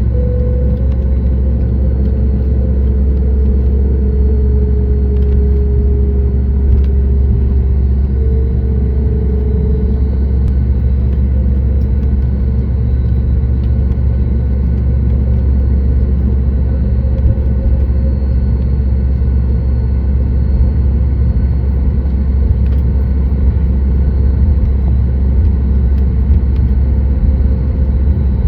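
Cabin noise of a Boeing 737 MAX 8 with its CFM LEAP-1B engines running: a steady low rumble with a faint hum that drifts slightly in pitch.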